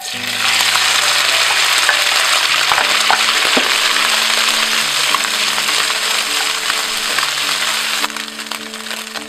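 Crab roe and crab meat dropped into hot corn oil in a wok, sizzling loudly the instant they land and frying steadily while a spatula stirs them, with a few knocks of the spatula on the pan. The sizzle eases a little about eight seconds in.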